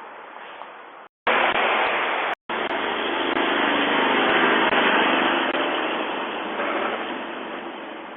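A truck driving past: engine and tyre noise swells to its loudest about halfway through, then fades away. The sound drops out completely twice, briefly, in the first few seconds.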